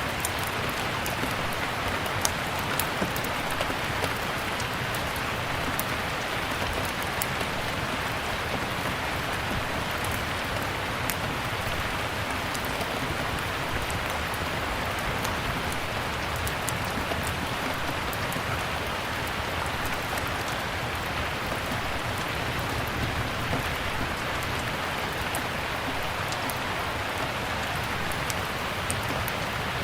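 Steady rain falling, with scattered sharp crackles and pops of a wood fire burning in a fireplace.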